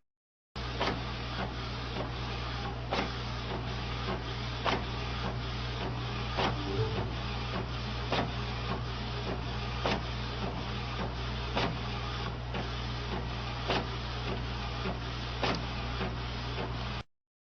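A printer running: a steady mechanical whirr with a sharp click repeating about once a second, stopping suddenly near the end.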